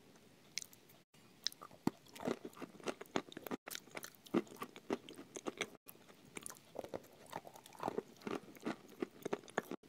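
Close-up chewing and crunching of food eaten off a spoon, a dense run of irregular wet clicks and crackles.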